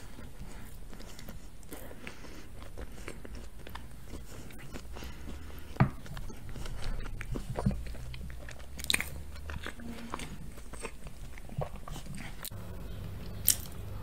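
Close-miked chewing and mouth sounds of someone eating soft chocolate cake, with a few sharp clicks scattered through.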